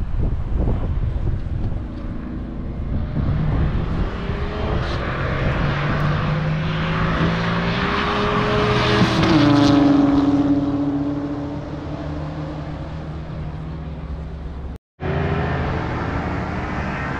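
Race car engine accelerating hard, its pitch climbing for several seconds and then dropping sharply about halfway through as it fades away. After an abrupt cut near the end comes steady engine noise.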